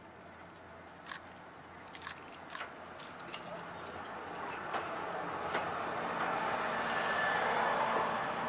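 Yoro Railway 620 series electric train pulling out of the station, its running noise swelling steadily as it gathers speed and draws closer, with scattered sharp clicks along the way.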